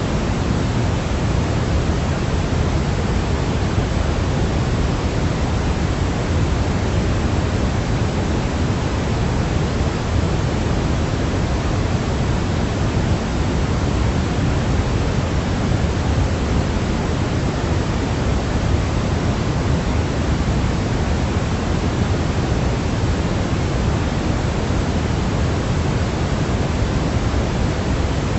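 Steady sleep-aid white noise: an unbroken hiss with no changes, weighted toward the low end like pink noise.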